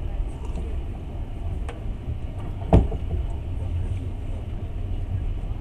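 Passenger train carriage running along the track, heard from inside the compartment as a steady low rumble. A faint click comes about a second and a half in, and a sharp knock comes about halfway through.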